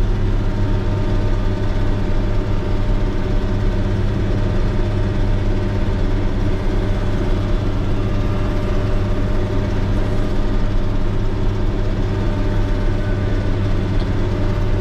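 Motor grader's diesel engine running steadily, a constant low hum with no change in pitch.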